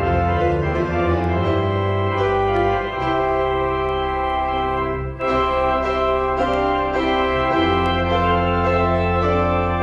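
Organ playing slow, sustained chords over a deep bass line, the harmony shifting every few seconds, with a brief break about five seconds in.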